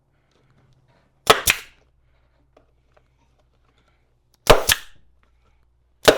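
Pneumatic staple gun firing three times, each shot a sharp double crack, driving staples through a seat cover into the seat pan. The owner wonders whether his regulated air pressure is too low.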